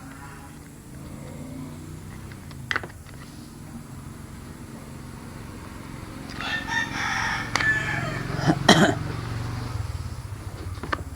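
A rooster crowing once in the background, lasting about a second and a half past the middle. A few sharp clicks and knocks sound around it, the loudest just after the crow.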